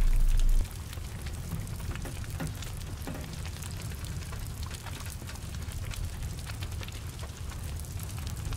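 Steady rain falling on a burning car, with many short sharp crackles and a low rumble from the fire under it.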